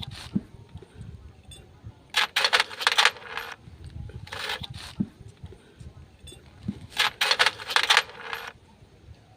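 Metal tools and engine parts clicking and clinking in three bursts of rapid sharp clicks, the longest near the end.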